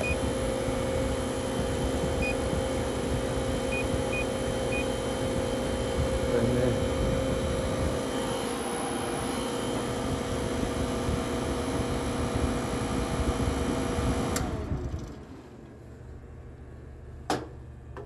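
Refrigeration condensing unit of a bar refrigerator, its hermetic compressor and condenser fan running steadily while it pumps the refrigerant down, with the low-side pressure falling. About 14 seconds in the unit shuts off abruptly and the fan winds down with a falling tone. A single sharp click comes near the end.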